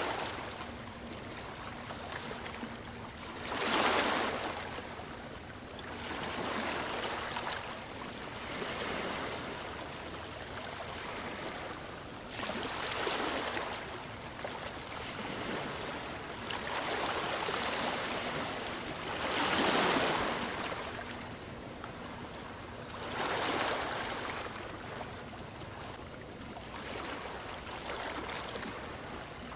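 Ocean waves washing ashore: an unbroken hiss of surf that swells into a louder rush every few seconds as each wave breaks and then falls back.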